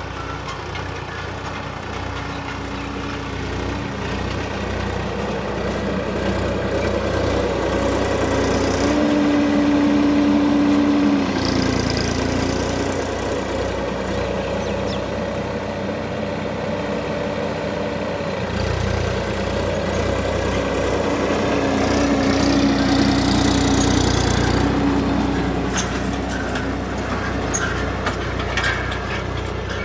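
Swaraj 969 FE tractor's diesel engine running steadily, its sound swelling louder about a third of the way in and again about three quarters through.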